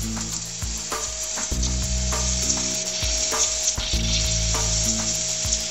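EDM hole drill sparking: a steady crackling sizzle of the electrical discharge as it burns a hole. Under it a low hum cuts in and out every second or so, and a thin steady tone joins about a second in.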